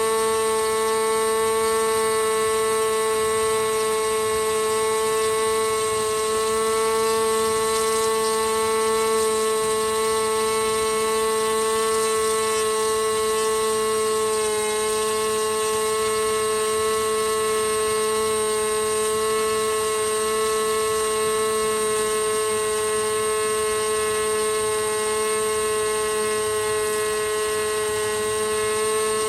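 OS 32SX two-stroke model glow engine running steadily on a test stand, turning a clipped APC 10.5x6 propeller through a Hatori 30NA muffler. It is a high-pitched, even whine, and the pitch dips slightly about halfway through.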